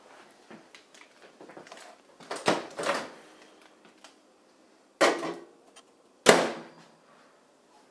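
Three loud knocks or slams, each with a short ringing tail: the first about two and a half seconds in, then two more over the next four seconds.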